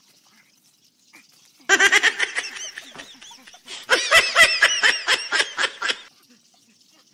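Laughter sound effect dubbed over the picture: two bursts of rapid, high-pitched giggling, the first about two seconds in and the second about four seconds in.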